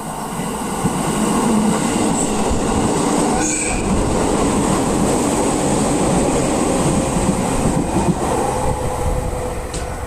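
Out-of-service train passing close by: a steady rumble of wheels on the rails that builds over the first second or two, holds, and eases off near the end.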